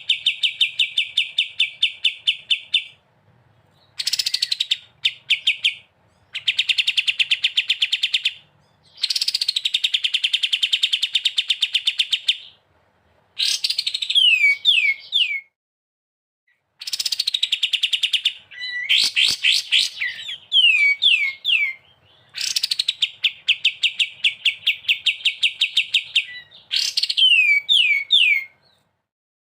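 Recorded songbird song: a bird repeats a fast, rattling trill lasting two to three seconds, each phrase opening with a downward slur, with short pauses between phrases. Several times a quick run of three or four descending whistled notes is worked in.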